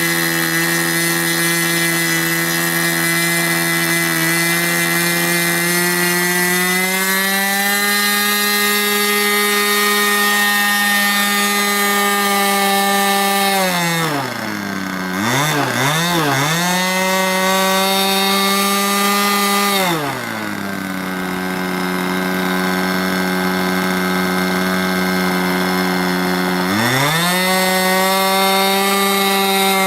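A radio-controlled model airplane's small engine runs steadily at high throttle. About halfway through it is throttled down with a few quick blips and comes back up, then drops to a low idle for several seconds before it is opened up again near the end.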